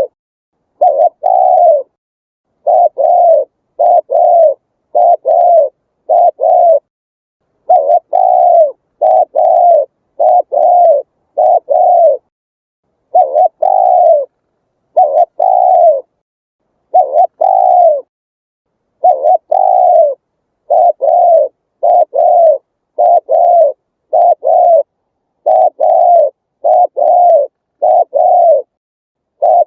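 Spotted dove cooing: short coo notes in quick pairs and threes, the groups repeated every second or two, with dead silence between them as in an edited recording.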